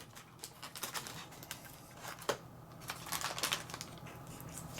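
Packaging being handled: soft rustling and scattered light clicks of cardboard and plastic, over a faint steady hum.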